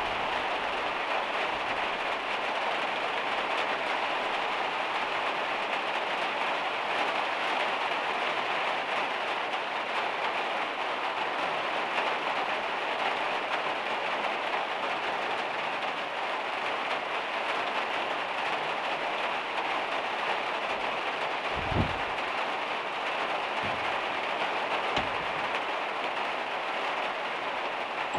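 Heavy rain drumming steadily on the van's metal roof. Three short, low thumps come in the last third, the first the loudest.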